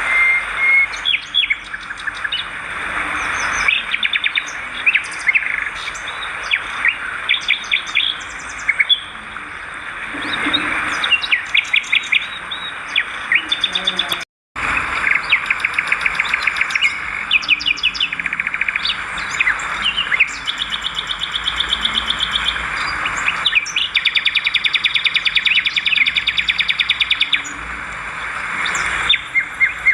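Swiftlets twittering: dense, rapid trains of chirps and buzzy trills, broken by a brief cut to silence about halfway through.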